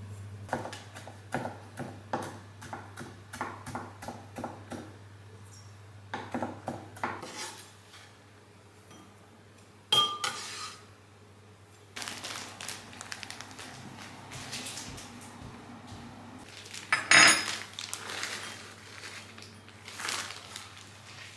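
Dishes and cutlery clinking and knocking in a run of short clatters, with a sharp ringing clink about ten seconds in and the loudest clatter around seventeen seconds.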